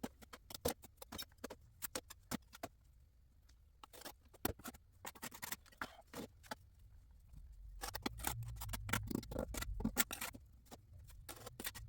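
Irregular sharp taps and scrapes of bricklaying work: a trowel working wet mortar and tapping bricks into place, with a low rumble of handling about two-thirds of the way through.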